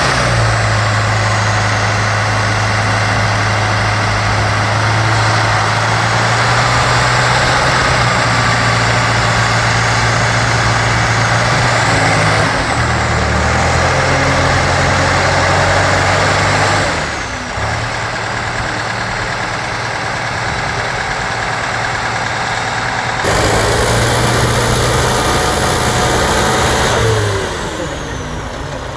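Competition trial truck's engine running loud and steady, its pitch stepping up and down as it revs under load, with the level dropping back twice.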